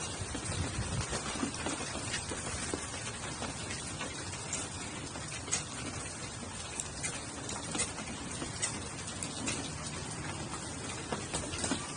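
Steady rain falling, a continuous hiss with scattered individual drops tapping at irregular moments.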